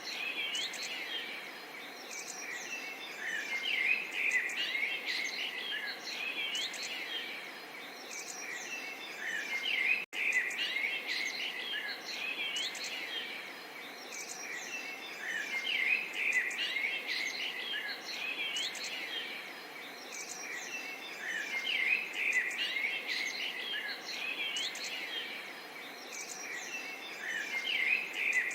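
Many small songbirds chirping and twittering, with overlapping short calls and quick whistled glides, over a soft steady babble of a stream. The sound cuts out for an instant about ten seconds in.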